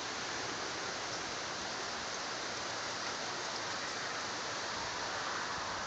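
Steady, even hiss of heavy rain falling during a thunderstorm.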